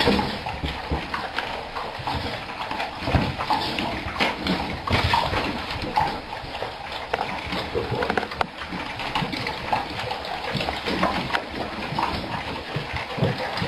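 A dog eating noisily, with irregular crunching and clicking sounds that cut off suddenly near the end.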